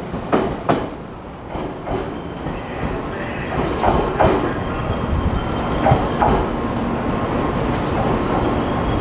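Train passing through a station, its wheels clacking over rail joints in pairs over a steady rumble of running gear.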